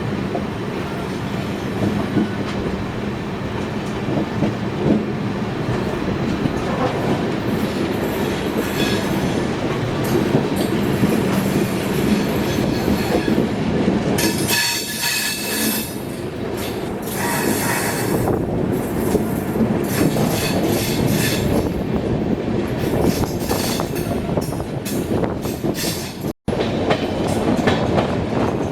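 Indian Railways passenger train running through a steep, curving ghat section, with steady rumbling and wheels clattering over the rails. Bursts of high-pitched wheel squeal come around the middle, typical of wheels on tight curves. The sound cuts out for an instant near the end.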